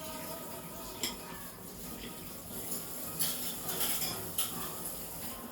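Sticky tape and folded colored paper being handled: scratchy rustling with a light click about a second in and denser scratchy bursts from about three to four and a half seconds in.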